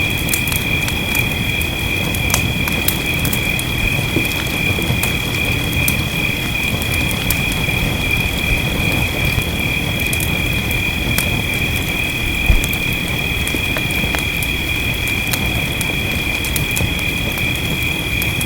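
Wood fire crackling with scattered pops over a steady low rumble and the hiss of rain, with one louder pop about two-thirds of the way through. A steady high-pitched two-note whine runs throughout.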